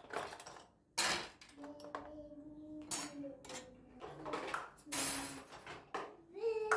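Dishes and cutlery clinking and clattering, handled in several separate knocks a second or two apart.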